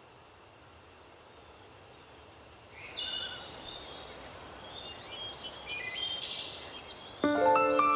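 Songbirds calling in short, repeated chirping phrases over a faint steady hiss, starting about three seconds in after a quiet stretch. Near the end, soft sustained music chords come in under the birds.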